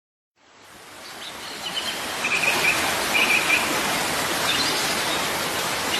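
Waterfall rushing steadily, fading in over the first two seconds, with a bird chirping briefly a few times over it.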